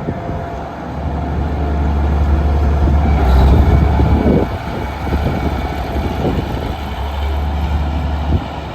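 Case IH 9170 four-wheel-drive tractor's diesel engine running with a deep, heavy drone that builds over the first few seconds, peaks about three to four seconds in, and drops away shortly before the end.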